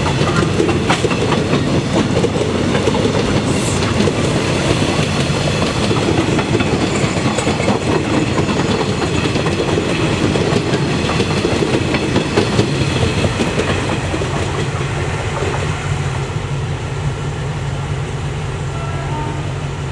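Passenger train coaches rolling past close by, their wheels clattering over the rail joints in a continuous rush of noise. The clatter eases a little in the last few seconds, leaving a lower steady rumble.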